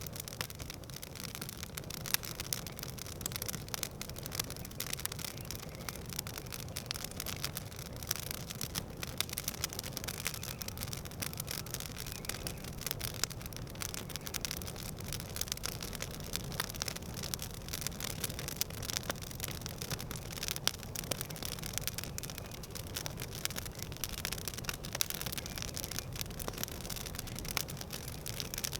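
Wood campfire crackling: a steady run of small pops and snaps over an even low rumble.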